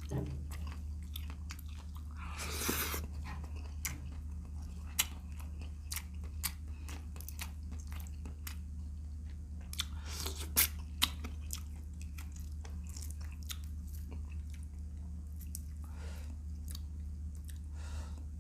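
Close-miked chewing and biting of vinegar-stewed shrimp: wet mouth clicks throughout, with a couple of longer, louder crunchy or slurping passages a few seconds in and about halfway. A steady low hum runs underneath.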